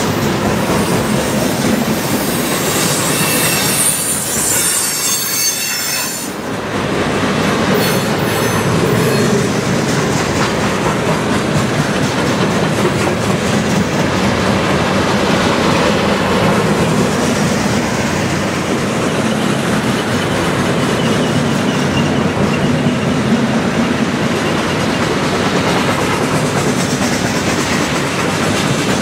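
Freight cars of a long CN freight train rolling past: a steady rumble and clatter of steel wheels on the rail. Shrill wheel squeal rings out for a few seconds near the start.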